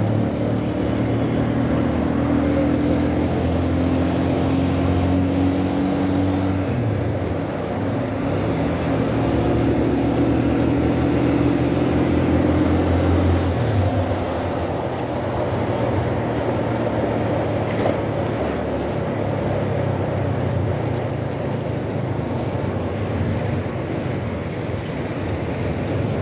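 Motorcycle engine running under way, its note shifting a few times as the bike speeds up and eases off.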